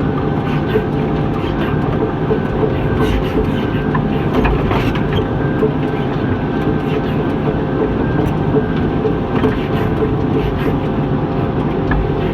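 John Deere 748L-II skidder's diesel engine running steadily while the machine drags logs, with scattered clanks and rattles from the machine.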